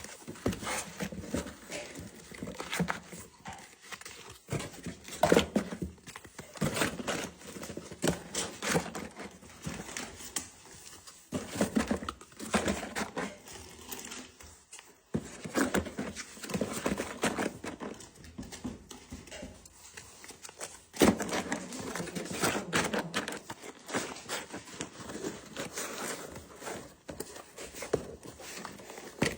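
Vacuum-sealed plastic packs crinkling and rustling as they are handled and packed into boxes, with irregular knocks and scrapes.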